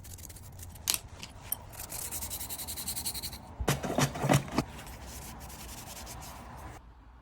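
Hand-tool work on a stainless steel motorcycle exhaust guard during a PEM nut repair. A fast run of scraping, sanding-like strokes comes about two seconds in, then a quick cluster of sharp knocks about four seconds in.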